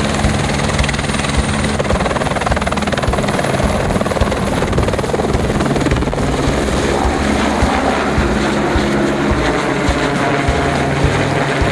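Helicopter running close by: a steady, loud, rapid rotor beat with a thin high-pitched turbine whine over it.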